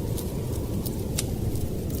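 Steady low rumble of blizzard wind, with a few sharp pops from a crackling wood fire scattered over it.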